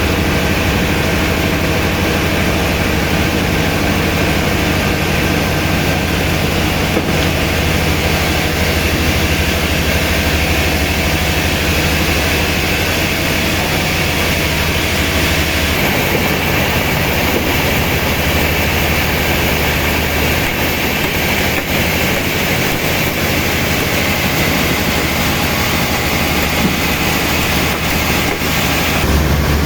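Heavy machinery running steadily, a dense mechanical din over a low hum. The sound changes abruptly about 16 seconds in and again near the end.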